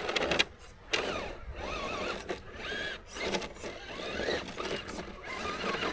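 Radio-controlled rock crawler's electric motor and gears whining, the pitch rising and falling again and again as the throttle is worked on a climb, with a few sharp clicks.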